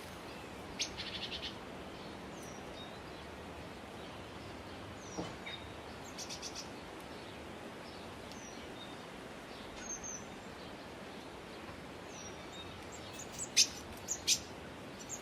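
Birds calling over a steady background hiss: scattered short, high chirps, a rapid trill about a second in and another about six seconds in, and two loud, sharp calls near the end.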